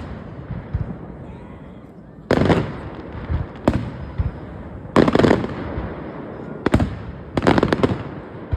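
Aerial fireworks bursting overhead: a series of sharp booms a second or so apart, the loudest two about two and five seconds in, each followed by brief crackling.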